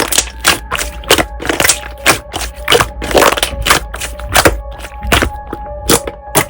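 Slime being pressed and worked by hand, giving irregular sharp pops and crackles about three a second, over soft background music with held tones.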